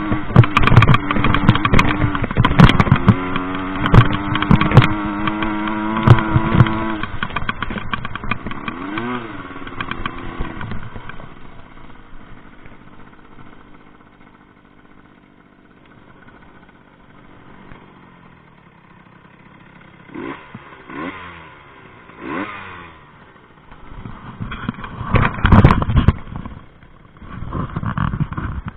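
Rieju MRT 50 two-stroke moped engine revving hard under load, with many sharp knocks and clatter. It drops to a quieter, distant buzz with a few short revs in the middle, then is loud again with knocks near the end.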